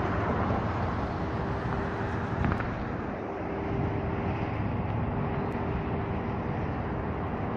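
Steady road traffic noise, with a faint steady hum.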